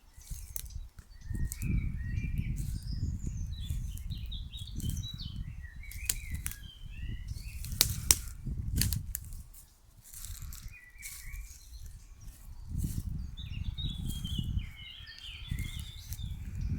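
Small birds chirping and twittering in scattered short phrases over a fluctuating low rumble, with a few sharp clicks.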